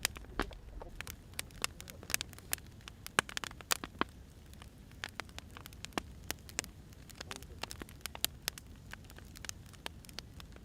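Burning firewood crackling, with irregular sharp pops scattered through a low steady hiss.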